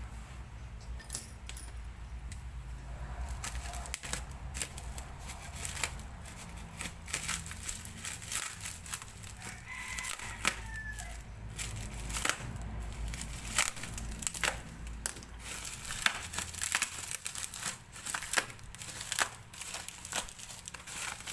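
Irregular clicks, crinkles and scrapes of hand work on a refrigerator's compressor, over a low steady hum that fades out near the end.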